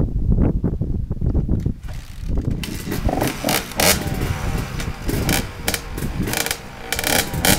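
Dirt bike engine turning over and catching about two and a half seconds in, then running with uneven, wavering revs and sharp pops.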